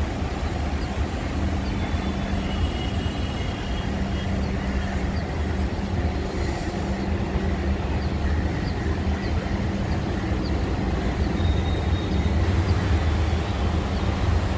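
Vande Bharat electric train running along the track: a steady low hum and rumble, with faint light ticks recurring throughout.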